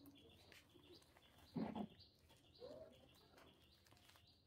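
Near silence with faint bird chirps, and one brief louder sound about one and a half seconds in.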